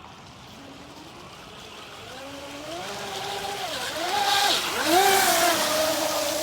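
Electric motor of a Pro Boat Geico 36-inch RC catamaran running on a 4S battery, whining with a pitch that rises and falls several times as the throttle is pushed and eased. It gets louder as the boat comes closer, with water spray hissing loudest a little past the middle.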